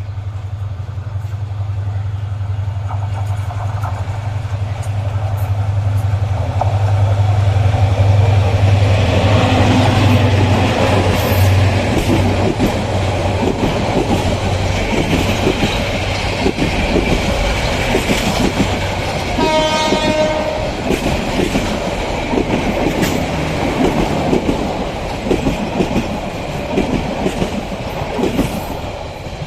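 A train approaching and passing, its low steady running sound building up, then the rapid clatter of its wheels over the rail joints. A short horn blast of about a second sounds about two-thirds of the way through.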